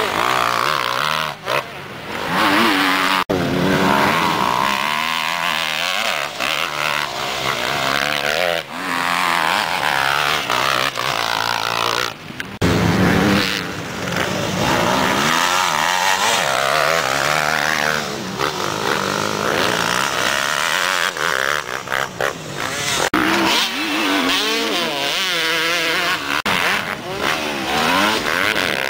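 Several motocross bikes racing, their engines revving high and dropping back again and again with throttle and gear changes, overlapping one another.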